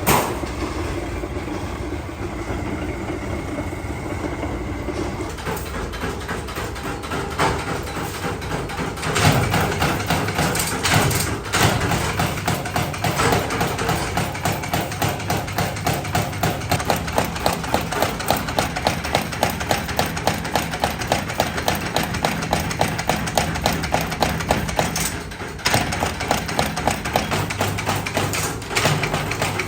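Metalworking machinery running steadily, with a few sharp knocks and then a fast, even rhythm of about two to three strokes a second for most of the second half.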